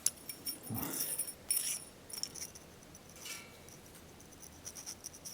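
Small pieces of metal clinking and jingling as they are handled, in several short bursts of light ringing clinks.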